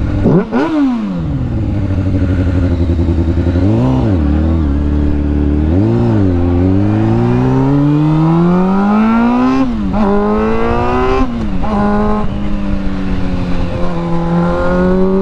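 Motorcycle engine accelerating through the gears. The pitch climbs and drops sharply at each shift, with two short throttle blips around four and six seconds in, then holds a fairly steady pitch near the end.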